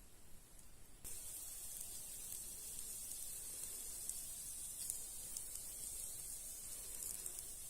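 A steady high hiss with scattered small crackles, starting abruptly about a second in.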